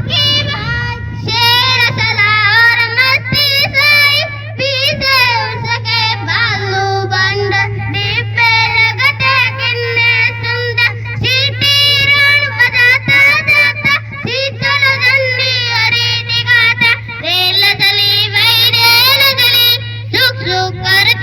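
A child singing a Hindi children's rhyme about a train, in a bending sing-song melody, over a steady low hum.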